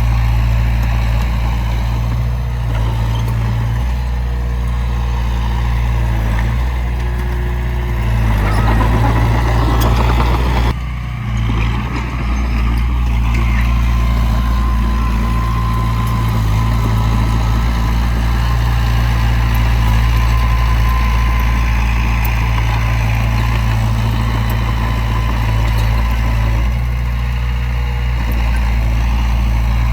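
Heavy diesel earthmoving machinery running steadily with a deep, continuous engine rumble. A louder rushing surge comes about eight to eleven seconds in, then drops off briefly.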